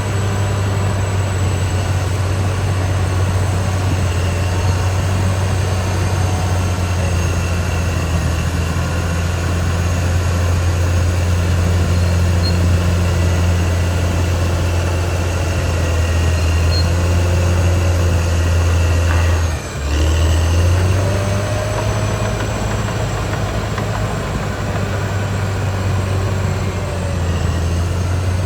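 Caterpillar D6R XL crawler bulldozer's diesel engine running steadily with a deep hum, dipping briefly about two-thirds of the way through before picking up again.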